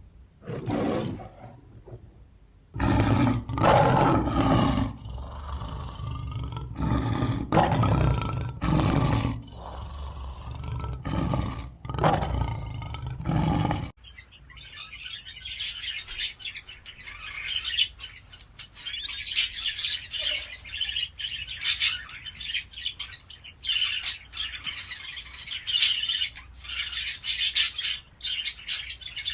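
A big cat roaring in repeated loud calls. About halfway through, the sound cuts abruptly to birds chirping in many short, high calls.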